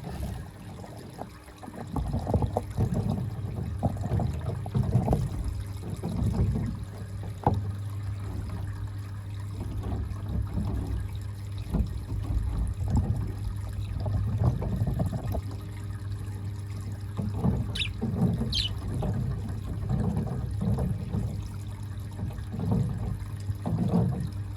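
Water gurgling and trickling in irregular bursts over a steady low hum, with two short high-pitched budgerigar chirps about eighteen seconds in.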